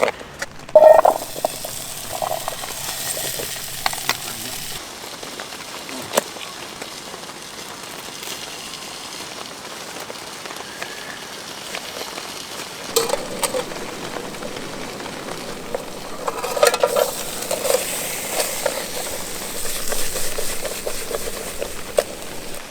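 Food sizzling steadily in a frying pan over a camp stove, with occasional sharp clicks.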